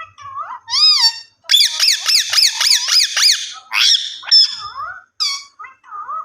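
Indian ringneck parakeet calling loudly: shrill squawks and whistled chatter, with a fast run of repeated rising-and-falling notes through the middle.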